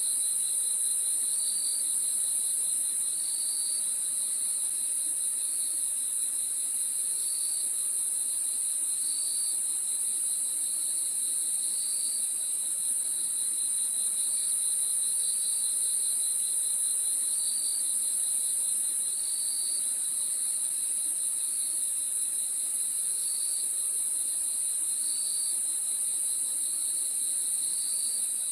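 Crickets chirping at night in a steady, unbroken chorus: a dense high trill with a lower cricket's short chirps repeating about once a second.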